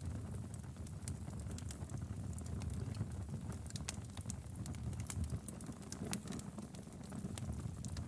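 Wood fire crackling in a fireplace: a steady low rumble of the flames with irregular sharp pops and snaps throughout.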